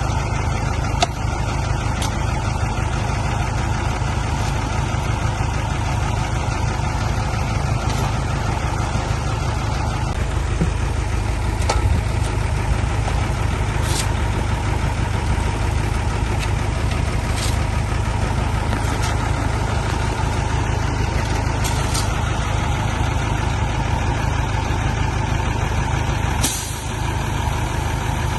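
Heavy diesel engine running steadily at low revs, with a few short, sharp hiss- or click-like sounds scattered through it and a brief drop in level near the end.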